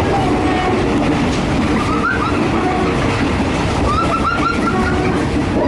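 Passenger train running along the track: a steady, loud rumble and rattle, with a few short, high-pitched chirps about two and four seconds in.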